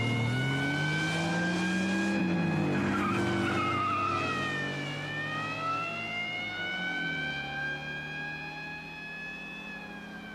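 Car engines accelerating hard through the gears, their pitch climbing and dropping back at each gear change, then fading as the cars pull away. One of them is a Citroën 2CV's small air-cooled flat-twin, revving high.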